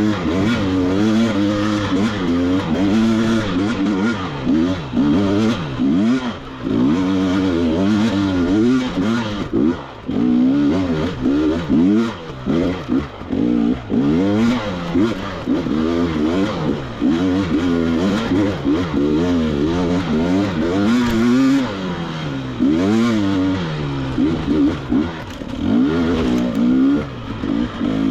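KTM 300 XC-W two-stroke dirt bike engine revving up and down without a break as the throttle is worked, with short drops where the throttle is rolled off.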